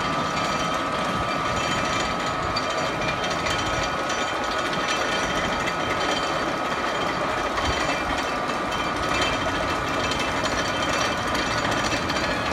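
Steady mechanical clattering and ratcheting of a roller coaster in operation, with a thin steady whine above it.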